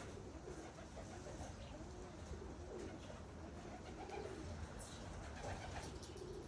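Pigeons cooing: a run of soft, low coos one after another, with a few faint clicks about five seconds in.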